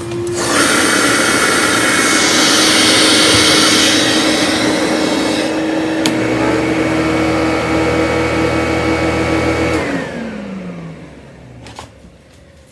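Vorwerk VK 121 upright vacuum cleaner running with a steady motor whine and rushing air; about halfway the airflow hiss drops and a deeper hum comes in. About ten seconds in the motor is switched off, its pitch falling as it winds down.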